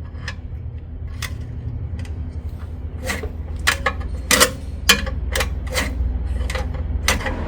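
Irregular sharp metallic clicks and clinks of hand tools working on bolts, about a dozen, most of them in the second half, over a low steady hum.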